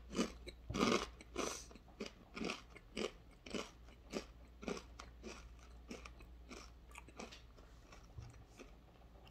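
A person chewing a kettle-cooked ruffled potato chip, with regular crunches a little under twice a second that grow fainter as the chip is chewed down.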